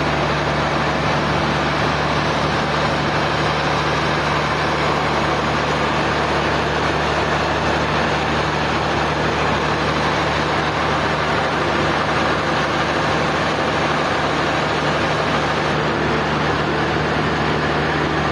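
Sawmill machinery running steadily: a constant low drone under a dense, even mechanical noise, with no strikes or changes in pace.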